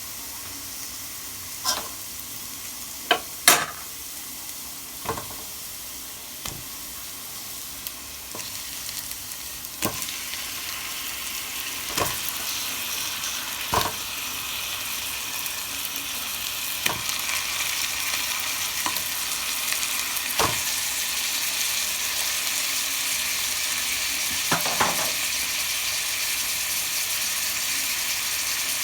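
Chicken pieces frying in hot oil with sautéed garlic and onion, sizzling steadily and growing louder about a third of the way in, while a utensil knocks against the pot a dozen times as they are stirred.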